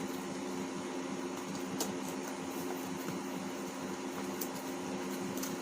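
Steady room hum from a running fan or air conditioner, with a few faint clicks from handling.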